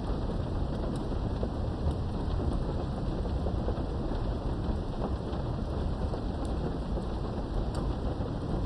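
Thunderstorm: steady rain with a continuous low rumble of thunder underneath and scattered sharp drip ticks, with no single clap standing out.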